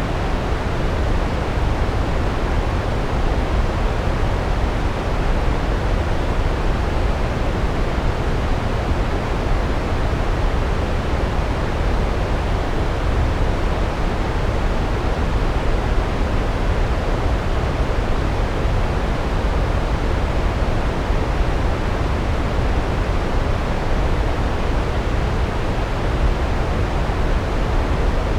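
Large waterfall's water pouring and crashing down the rocks: a steady, unbroken rush with a heavy low rumble.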